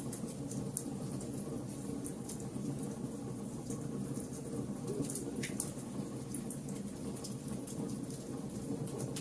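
Fire crackling: a steady low rush with many scattered sharp pops and snaps.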